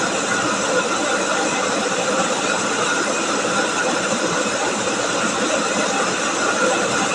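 Chao Phayu rice milling machine running steadily while it mills rice.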